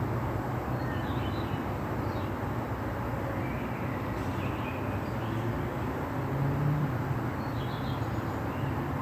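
Light rain falling steadily, with a bird chirping now and then and a low, steady rumble underneath.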